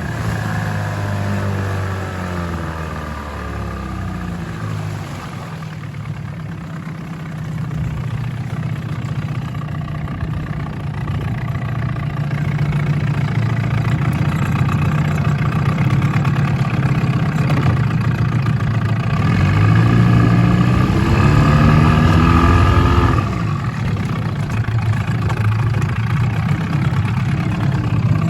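1984 Evinrude 8 hp two-cylinder two-stroke outboard motor running under way. Its note falls over the first few seconds as it is throttled back, holds steady, climbs again about twenty seconds in, then drops abruptly a few seconds before the end.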